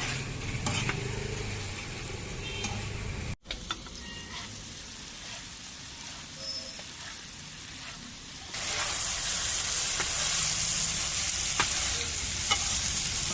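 Food sizzling in oil on a flat iron tawa griddle, with a few sharp clicks. The sizzle breaks off for an instant a few seconds in, then grows louder and brighter past the middle.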